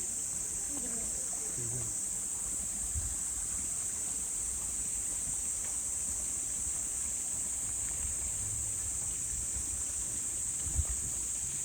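Summer cicada chorus: a continuous, even, high-pitched buzz, over a low background rumble with a faint thump near the end.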